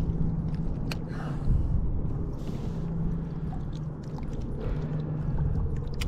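Water sloshing and handling noise from a kayak as a small fish is brought in, under a steady low hum and rumble, with a sharp click about a second in and another near the end.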